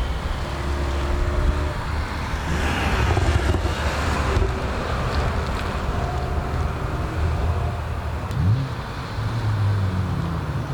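Car engines running at low speed, with a louder swell of engine and road noise about three seconds in and a short rev near the end.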